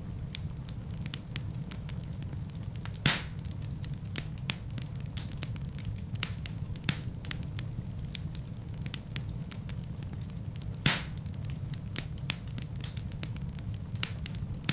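Fireplace fire burning with a steady low rumble of flames, crackling with frequent sharp clicks and two louder pops, about three seconds in and near eleven seconds.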